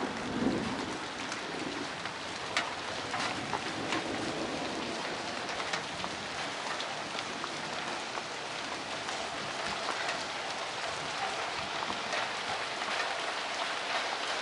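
Heavy thunderstorm rain falling steadily, with single close drops striking sharply throughout. A low roll of thunder rumbles during the first few seconds and fades away.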